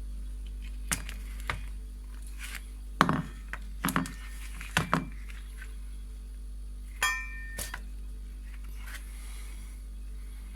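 Hard objects being handled and set down: about seven separate knocks and clinks, the one about seven seconds in ringing briefly like struck metal, over a steady electrical hum.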